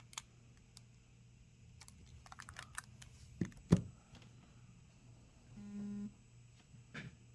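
Light clicks and taps of hands handling a Samsung Galaxy Z Flip 5 and pressing its power button, with two sharper knocks about three and a half seconds in. A short low buzz of about half a second comes a little after the middle: the phone's vibration motor as it powers on.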